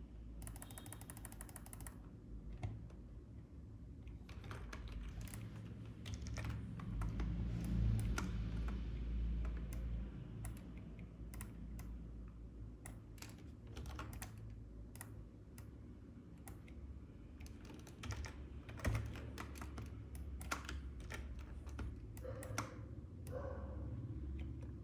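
Typing and clicking on a computer keyboard: irregular sharp key taps throughout, with a quick rattling run of clicks in the first two seconds, over a steady low hum.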